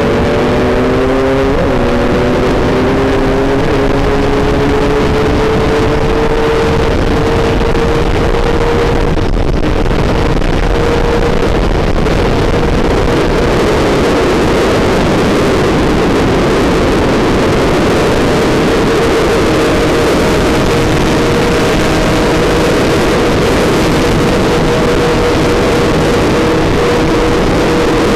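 Enduro dirt-bike engine running hard at high revs, heard from on board the bike with heavy wind noise over the microphone. Its pitch shifts in the first couple of seconds, then holds fairly steady.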